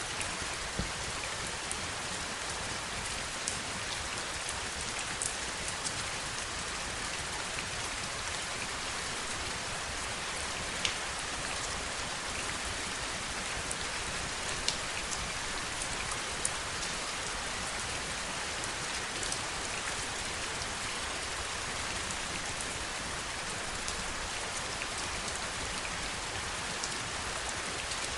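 Steady heavy rainfall, a dense even hiss of falling drops, with a few sharper single drop ticks standing out now and then.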